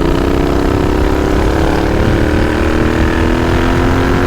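Royal Enfield Continental GT motorcycle with an aftermarket scrambler exhaust, riding along with its engine note rising steadily as it accelerates.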